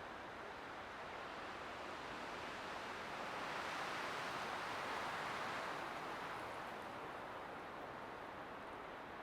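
Light winter wind blowing, an even rushing hiss that swells into a gentle gust a few seconds in and eases off again.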